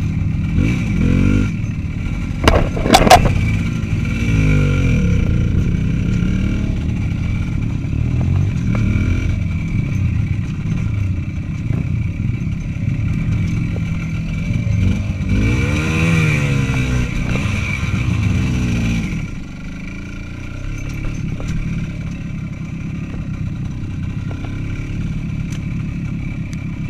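Small motorcycle engine running under way, revving up and easing off several times. There is a sharp clatter about three seconds in and a long rev around the middle, after which the engine runs quieter.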